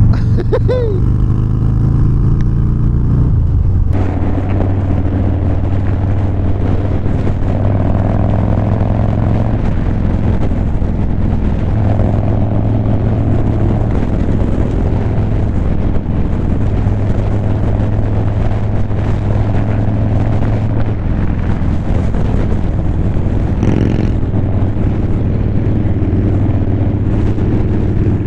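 Motorcycle engine running steadily under way, its low pitch holding fairly even, with road and wind noise.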